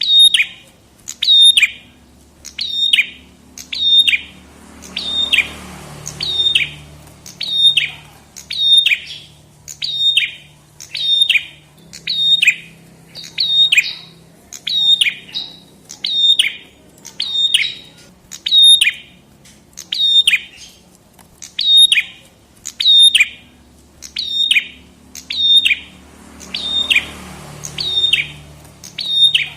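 Prenjak kepala merah (a small prinia-type songbird) calling repeatedly. Each short, high, downward-sweeping note comes about every three-quarters of a second in a steady, unbroken series.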